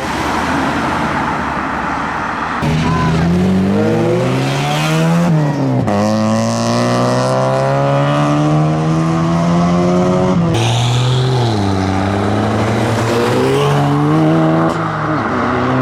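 A modified car's engine accelerating hard, its pitch rising in three long pulls with a sharp drop in pitch between them.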